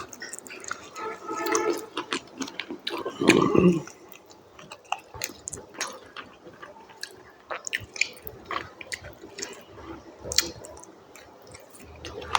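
Close-miked chewing and wet mouth sounds of someone eating a rice and curry meal: scattered small smacks and clicks, with one louder sound about three seconds in.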